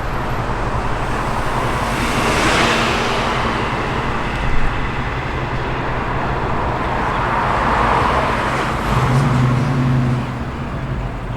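Cars driving past one after another with their engines running, the sound swelling as one passes about two seconds in and again as another passes around eight seconds in.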